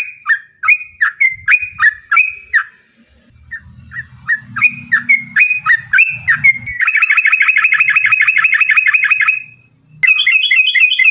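Yellow-vented bulbul (trucukan) singing: runs of loud bubbly chirping notes, then a long rapid trill about seven seconds in, lasting some two and a half seconds, and after a short break the chirping starts again.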